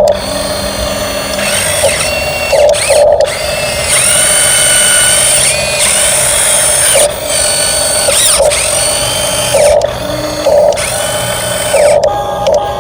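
Electric motor and gearbox of a radio-controlled dump truck whining in repeated runs, each spinning up, holding a steady pitch for a second or more, then winding down, with short pauses between.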